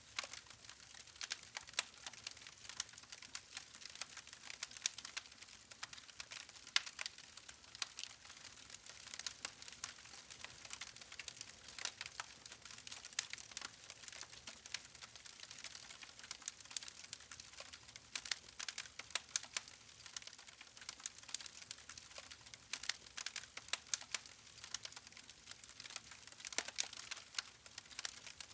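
Campfire logs crackling: irregular sharp pops and snaps over a soft hiss of burning wood.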